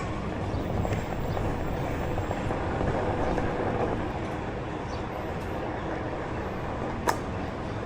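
Steady street and traffic noise, with a single sharp click about seven seconds in.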